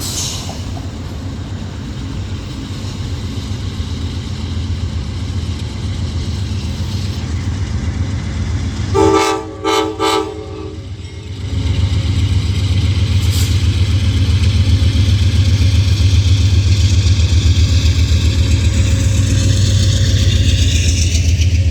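Train passing trackside: a steady low rumble, two short blasts of the train horn about nine seconds in, then the rumble grows louder as the train comes close.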